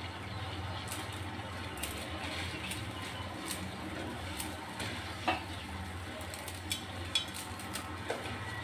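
Pot of water at a boil on a stove with instant noodles just added, bubbling steadily, with a few light clinks of a utensil against the pot, one a little past halfway and a few near the end.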